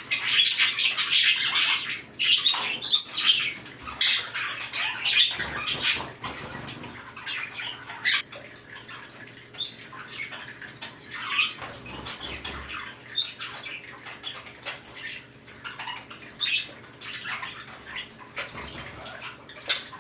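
Pet birds chirping and calling in short, scattered notes, with wing flaps now and then.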